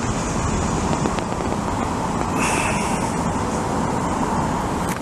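Steady roar of road traffic outdoors, with a brief high tone about halfway through.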